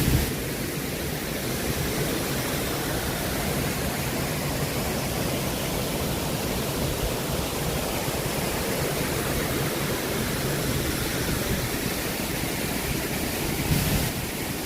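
Waterfall cascades: a steady, even rush of falling water.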